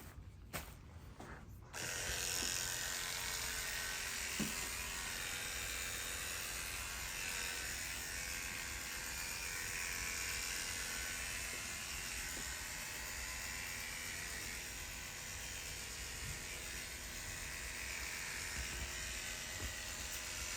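Electric hair clippers switch on about two seconds in and run steadily as they shave the donor area at the back of the scalp, preparing it for FUE graft extraction.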